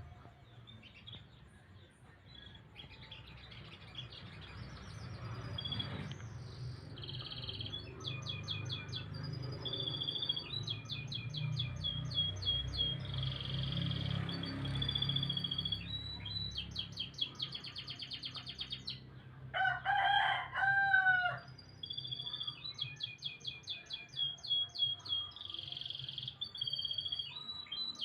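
Canary singing: long, rapid, high-pitched trills and rolling phrases, one after another with short breaks. About two-thirds of the way through, a rooster crows once, louder than the song, with a low rumble of background noise in the first half.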